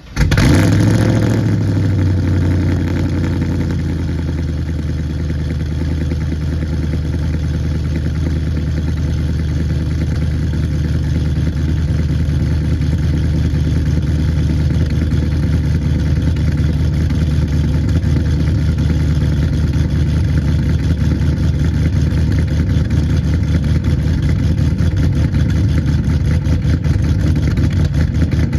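Cammed 6.0-litre LS V8 of a 2009 Pontiac G8 GT catching on a cold start, flaring up briefly, then settling within about two seconds into a steady, choppy idle. It runs through long-tube headers and near-straight pipes with glasspacks, still a little cold at about 700 rpm.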